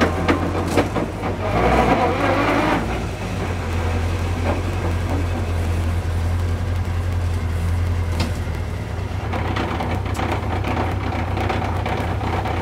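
Turbocharged hillclimb car's engine running at low revs, heard inside the stripped-out cabin, as the car rolls slowly to a stop. It is a steady low drone, rougher and louder for the first three seconds, then even.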